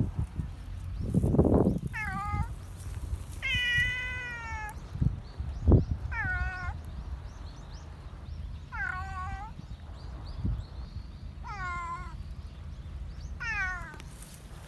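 White cat meowing about six times, one meow longer and drawn out about four seconds in, as it asks for attention while being stroked. A few low thumps are heard between the meows.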